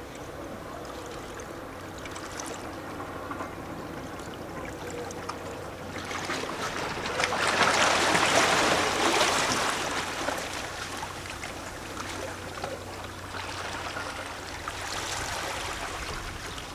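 Small sea waves lapping and sloshing against rocks, with gurgling water. A bigger wave washes in about six seconds in, loudest around eight seconds, then falls back, and a smaller one follows near the end.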